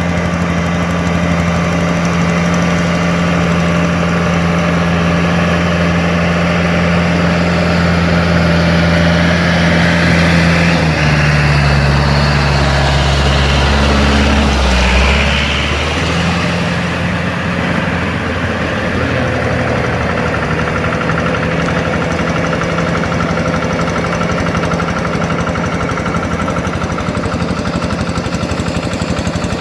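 Yanmar EF725T tractor's diesel engine running steadily. About eleven seconds in, its note shifts and it grows a little louder for a few seconds, then it settles back to an even run.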